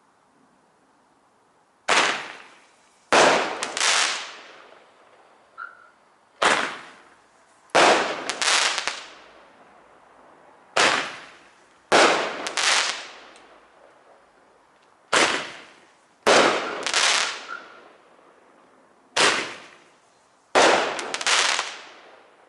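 Red Apple UV Roman candle firing five shots, about one every four seconds: each shot is a sharp launch pop followed about a second later by a loud double bang from the break in the air, each ending in a short tail. The shots are hitting really hard.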